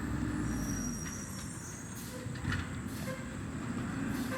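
Recycling truck's engine idling, with a thin high squeal just under a second in and short hissing bursts about two, three and four seconds in.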